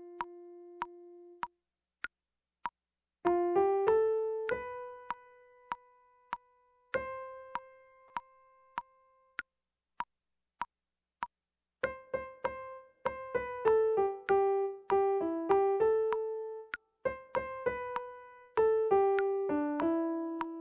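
A single-line soprano melody played one note at a time on an electric piano, each note fading after it is struck, over a metronome click about twice a second. The melody pauses twice, after about a second and a half and again around ten seconds in, while the clicks carry on.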